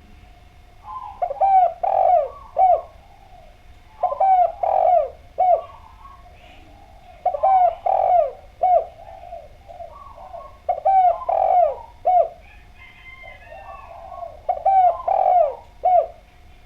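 Spotted dove (derkuku) cooing: a phrase of three or four low coos, repeated five times about every three seconds.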